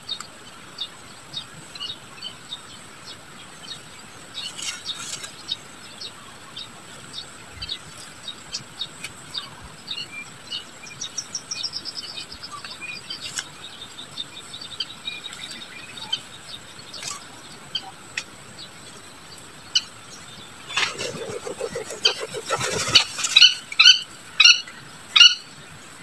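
Birds chirping with short, scattered high notes and a falling run of notes about halfway through. Near the end comes a rustling flutter, then a string of loud, harsh calls.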